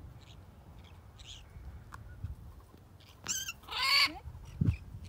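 Birds calling in flight: faint short calls, then two clearer calls in the second half, the second one longer and the loudest, followed by a low bump near the end.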